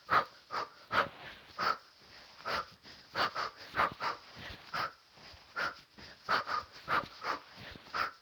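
A person's sharp, forceful breaths, about two a second and somewhat irregular, in time with shadowboxing punches.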